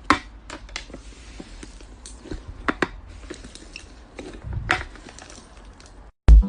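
Slime being squished and pressed by hand, making irregular sharp clicks and pops over a faint hiss. Loud dance music cuts in near the end.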